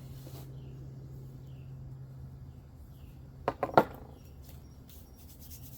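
Three or four sharp clacks in quick succession about three and a half seconds in, typical of PVC pipe pieces being knocked together while being fitted. A low steady hum stops at the clacks. Faint short falling bird chirps repeat in the background.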